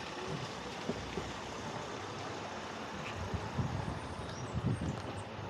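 Wind rushing over the microphone on a moving e-bike, with low buffeting gusts that swell a few times in the second half.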